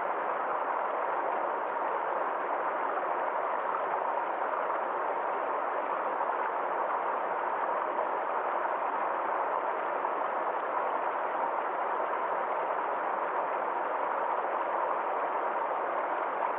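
Small forest stream flowing over a little waterfall: a steady, even rush of water that does not change.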